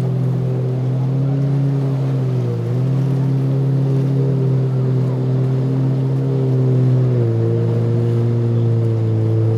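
Motorboat engines droning at a steady pitch. The pitch dips briefly about two and a half seconds in and drops a step about seven seconds in.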